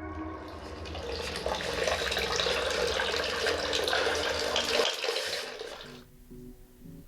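Water running in a steady rush, swelling in over the first second and stopping sharply about six seconds in.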